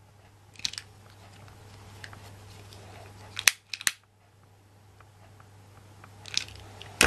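Scissors snipping: a handful of short sharp clicks, two close together about three and a half seconds in and the loudest at the very end, over a faint steady low hum.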